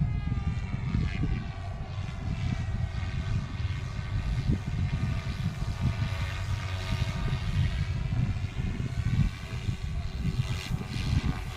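GOOSKY RS4 Venom RC helicopter flying, its electric motors and rotors giving a whine that rises and falls in pitch. Heavy wind rumbles over the microphone throughout and is the loudest sound.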